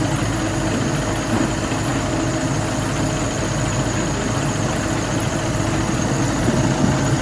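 Heavy factory machinery running steadily, a constant low rumble with a steady hum.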